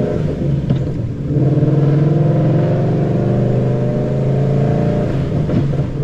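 2013 Ford Mustang GT's 5.0 V8 with long-tube headers, high-flow X-pipe and Roush axle-back mufflers, accelerating hard. The engine pulls up in revs, breaks off briefly about a second in and again about five seconds in for gear changes, then pulls up again.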